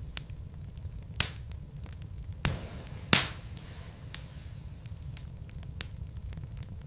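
Wood fire burning in a fireplace: logs crackling with scattered sharp pops, the loudest about three seconds in, over a steady low rumble.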